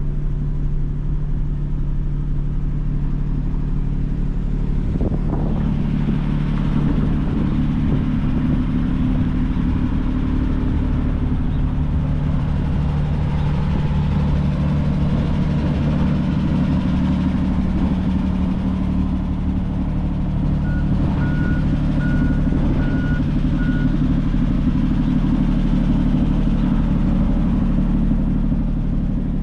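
1941 Plymouth Special Deluxe's flathead straight-six idling steadily. About two-thirds of the way in, five short high beeps sound over it.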